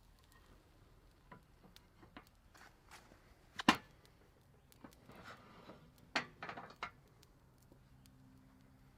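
A few scattered knocks and clicks of cooking gear being handled, the loudest a little over a third of the way in and a quick cluster about two-thirds through. A faint low hum starts near the end.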